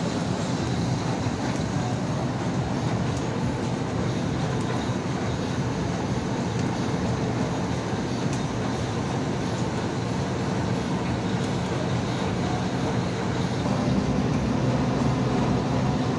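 Industrial blower running steadily: a constant rushing drone with a low hum underneath, getting slightly louder near the end.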